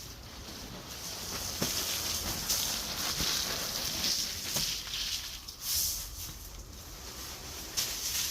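Rustling and scraping of dry coop bedding as it is moved about, in uneven surges with a few light knocks.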